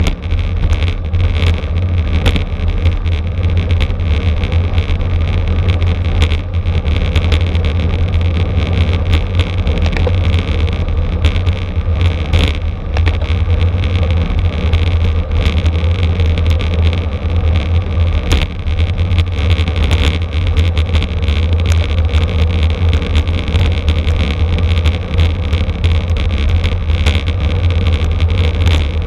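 Steady rush of wind and road rumble on a camera riding with a racing bicycle at speed, with scattered small clicks and knocks from bumps.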